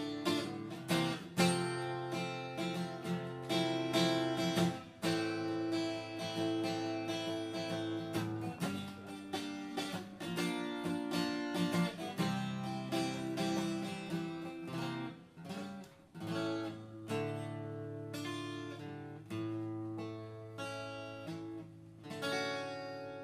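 Acoustic guitar playing the instrumental close of a folk song, with strummed and plucked chords and no singing. The final chord rings out and fades near the end.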